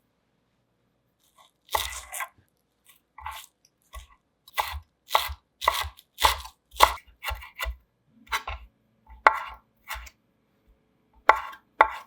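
Knife chopping food on a cutting board: slow, uneven strokes, about one or two a second, starting a little under two seconds in.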